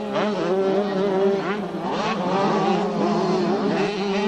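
Several motocross bikes racing, their engines revving up and down in overlapping rising and falling notes over a steady drone.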